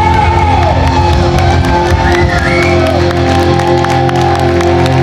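Live band playing loudly at the close of a song, held tones with sliding notes, while the audience cheers and whoops.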